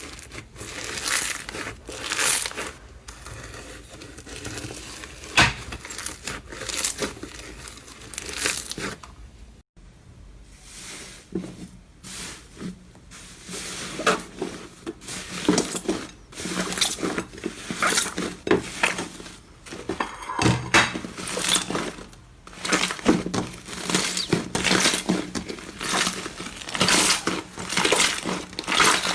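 Slime being squeezed and pressed by hand, giving a run of irregular crackling, crinkling pops. The sound cuts out briefly about ten seconds in, then goes on.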